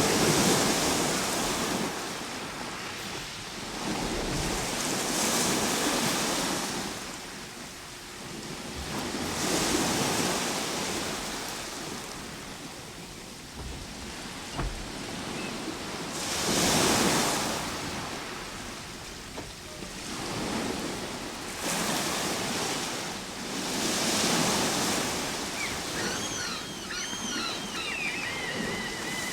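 Ocean waves breaking on a shore, the surf rising and falling in slow surges every few seconds. Near the end a quick series of high chirps sounds over the surf.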